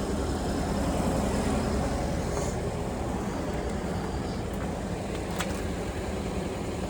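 An engine running steadily: a low, even drone with a faint hiss above it.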